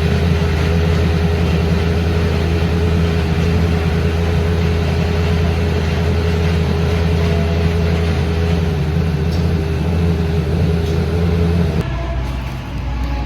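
An engine running steadily at one constant speed, a deep even drone with no revving, that stops abruptly near the end.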